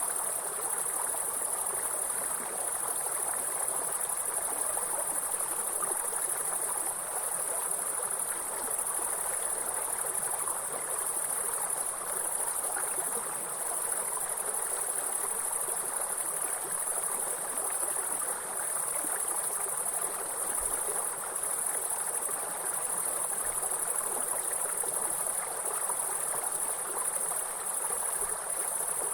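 A steady, high-pitched chorus of chirring insects over the even rush of flowing water.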